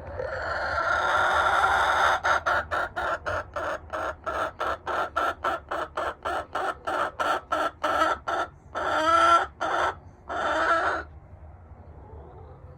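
Buff Orpington chicken calling: one drawn-out note swelling over about two seconds, then rapid clucks at about four a second for some six seconds, ending with two longer squawks.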